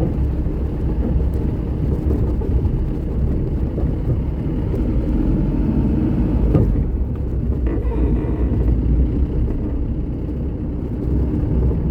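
A vehicle driving along a rough road, its engine and tyres making a steady low rumble, with one sharp knock about six and a half seconds in.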